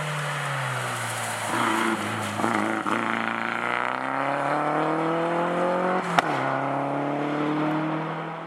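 Toyota Celica rally car's engine heard onboard, climbing steadily in revs for about four seconds under acceleration. About six seconds in a sharp click comes as the revs drop with a gear change, then the engine pulls again before fading out near the end.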